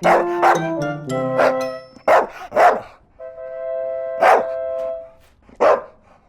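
Dog barking sound effect, a series of short barks, with bouncy children's music playing underneath.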